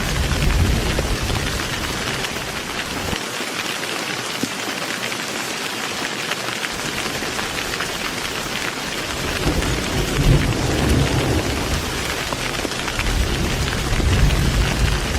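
Heavy rain falling steadily with rolling thunder. A low rumble dies away about three seconds in, then builds again about ten seconds in and once more near the end.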